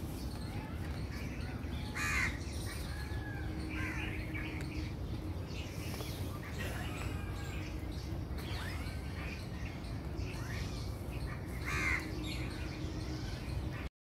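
Outdoor birds calling, with scattered chirps and two louder calls, one about two seconds in and one near the end, over a steady low background rumble.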